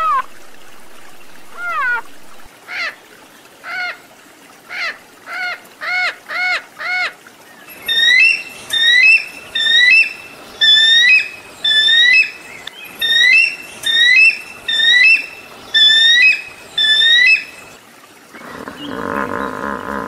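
A run of short, arched animal calls coming faster and faster, then a repeated bird-like call about once a second. A deeper, louder animal call starts near the end.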